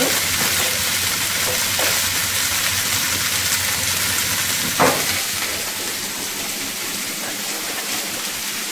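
Potato pieces, green peas, carrot and capsicum sizzling steadily as they fry in a little oil in a nonstick pan. A single sharp knock about five seconds in.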